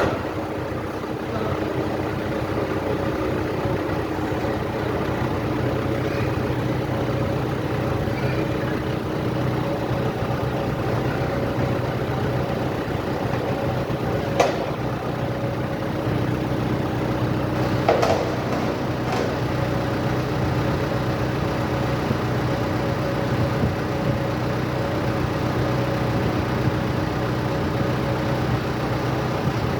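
A vehicle engine idling steadily, with a few sharp knocks about halfway through.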